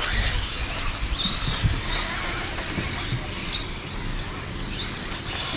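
Radio-controlled 2wd stadium trucks driving on a dirt track, their electric motors whining up and down in pitch as they speed up and slow, several times over a steady background hiss.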